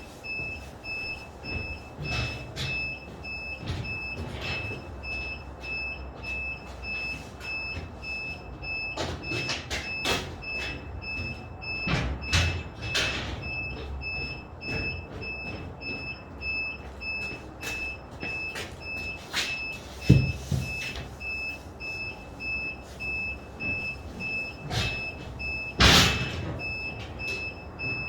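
Construction-site ambience during gypsum board carrying work: a high electronic beep repeating in short even pulses throughout, over a general rumble, with scattered knocks and bangs, the loudest about twelve, twenty and twenty-six seconds in.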